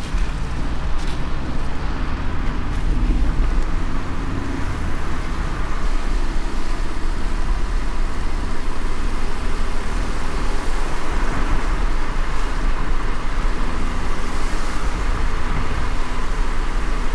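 Car driving in light rain: a steady low road rumble under an even hiss of tyres and rain.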